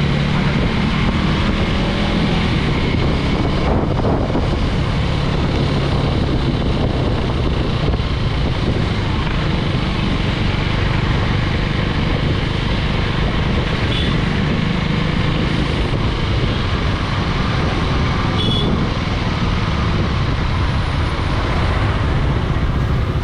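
KTM Duke 390 single-cylinder motorcycle engine running steadily at road speed, with heavy, even wind rush over the rider's microphone.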